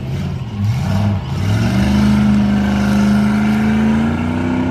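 Tough-truck race truck's engine revving up and down in quick blips, then held at steady high revs under hard throttle, its pitch stepping up a little near the end.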